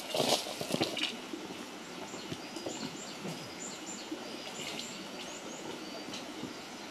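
Wood fire crackling: a cluster of loud knocks and crackles in the first second, then a steady low crackle with small birds chirping in short high notes over it.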